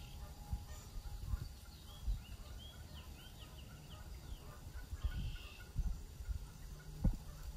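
Birds calling: a quick run of short chirps in the middle and a couple of buzzy calls, one at the start and one about five seconds in. Underneath is a low rumble from wind on the microphone.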